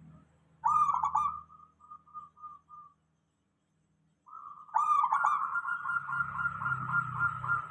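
Zebra dove (perkutut) cooing. About a second in comes a rising note, then a short string of quick coos. After a gap, a longer, fast, rolling run of coos starts around halfway.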